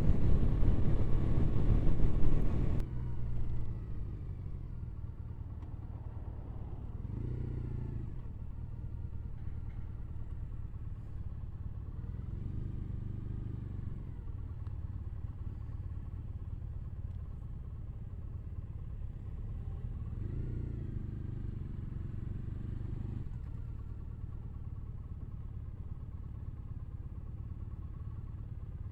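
Triumph Bonneville parallel-twin motorcycle engine running on the road, heard from the rider's seat. It is loud for the first few seconds, drops sharply about three seconds in, then settles into a steady low hum with a couple of gentle swells.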